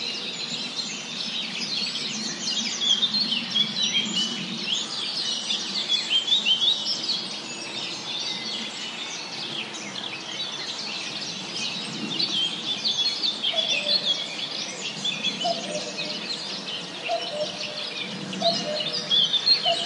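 Many songbirds chirping and singing at once in woodland, a dense overlapping chorus of high chirps and trills over a soft steady background hiss. From about halfway on, a lower short call repeats roughly once a second beneath the chorus.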